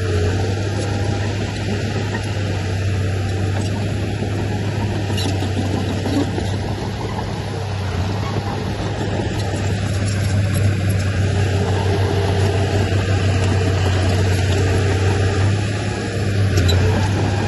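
Diesel engine of heavy earthmoving machinery running steadily under load, a continuous low hum with a few faint clanks.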